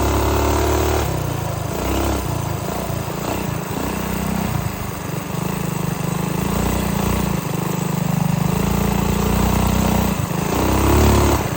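Minibike engine running while riding, its pitch steady at first, then falling and rising with the throttle, with wind noise on the microphone.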